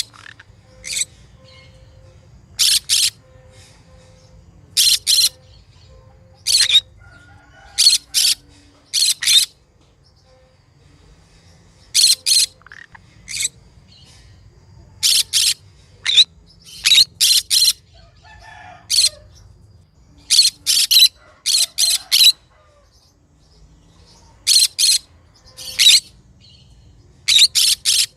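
Green conure giving short, harsh calls, mostly in quick pairs or threes, repeating every second or two.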